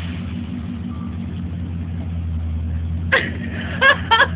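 Pickup truck engine idling steadily, with a few short vocal outbursts from about three seconds in.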